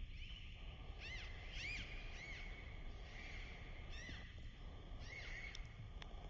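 A bird calling: a string of short chirps that rise and fall in pitch, coming in clusters from about a second in. Under it runs a steady low background rumble.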